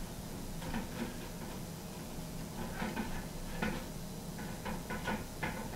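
Irregular light clicks and taps of toy pieces being handled and fitted together while a child builds a toy train.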